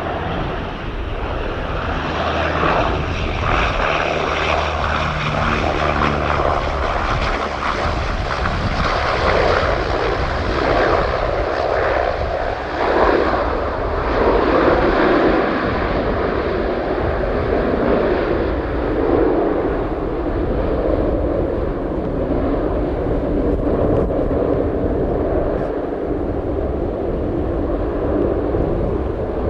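De Havilland Dash 8-300 turboprop's engines and propellers running, a steady drone with a rushing noise that swells a few seconds in and then slowly dulls.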